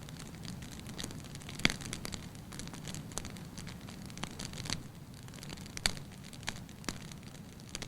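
Wood fire burning in a fireplace: a steady low rush of flames with irregular sharp crackles and pops. The loudest pops come about a second and a half in and just before six seconds.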